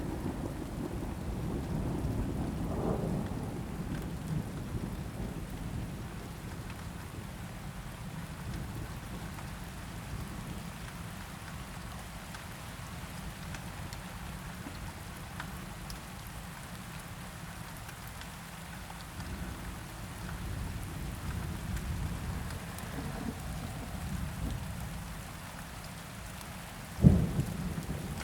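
Steady rain with a low roll of thunder fading away over the first few seconds. About a second before the end comes a single sudden low thump, the loudest sound.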